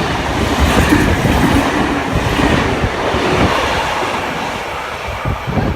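A train passing close by, its wheels clattering over the rails, easing off gradually toward the end.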